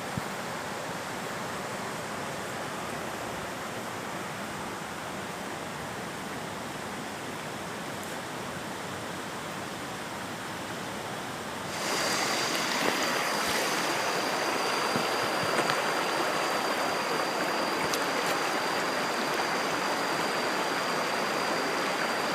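Stream water running steadily. About twelve seconds in, the rushing gets louder and a steady high whine joins it.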